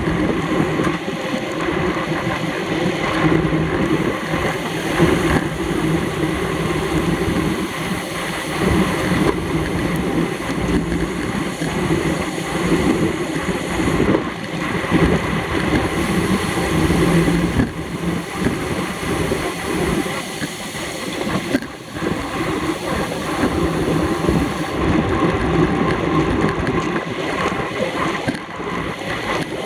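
Wind rushing over the microphone of a camera on a racing bicycle at speed: a steady, loud rush with a faint hum under it.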